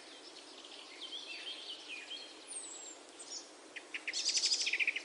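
Birds chirping: short rising and falling chirps, then a fast chattering trill near the end, over a faint steady hiss.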